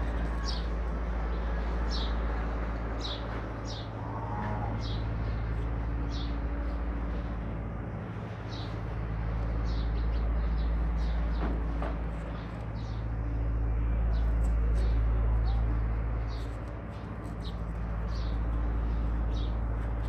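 Small birds chirping, short high chirps repeating about once a second, over a steady low hum and a low rumble that swells and fades every few seconds.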